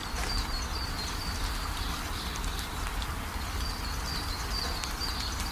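A songbird singing: two phrases of short, quick high notes, the second starting about three and a half seconds in, over a steady low rumble.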